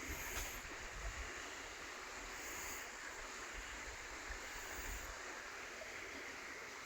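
River water rushing, a steady, even hiss, with gusts of wind rumbling on the microphone through the first five seconds or so.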